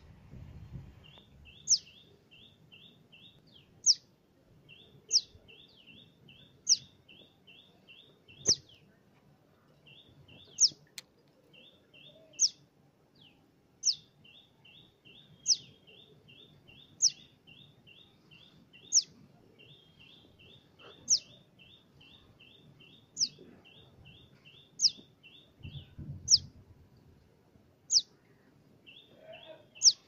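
Fledgling bird calling: a loud, sharp, falling cheep about every one and a half to two seconds, over a fainter rapid run of short chirps.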